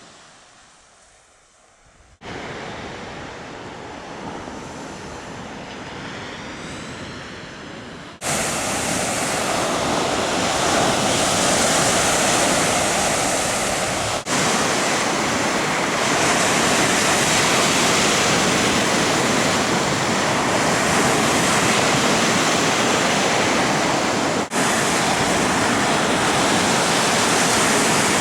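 Steady rush of water, loud and even, with no swell or rhythm. It comes in several clips spliced together, with abrupt changes in level about 2, 8, 14 and 24 seconds in.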